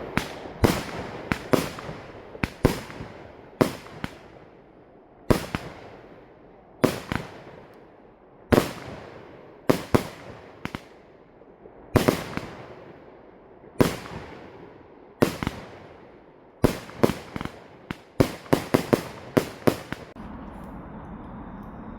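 Fireworks going off: a long string of sharp bangs, one about every second or so, each with a rolling echo that dies away. Near the end they come in a quick rapid cluster, then stop.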